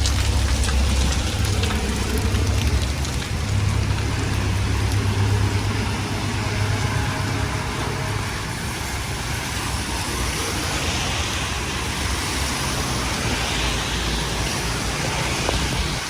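Rain falling on a city street with traffic on the wet road, an even hiss throughout. A deep rumble, as of a vehicle going by, fills the first six seconds or so and then fades.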